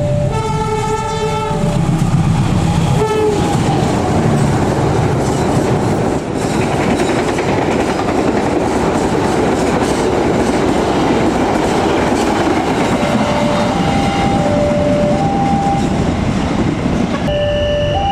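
Locomotive horn sounding for about a second at the start, with a short second blast about three seconds in, then a train passing fast with a steady rumble and wheels clacking over the rail joints. Near the end the level crossing's warning alarm alternates between two tones.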